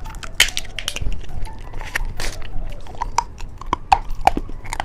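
Crisp, irregular clicks and crinkles of a lollipop's plastic packaging being handled and opened.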